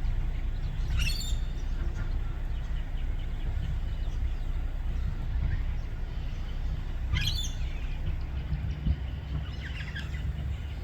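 Pale-headed rosella calling: two short, sharp rising calls, about a second in and again about six seconds later, with fainter calls near the end. A steady low rumble runs underneath.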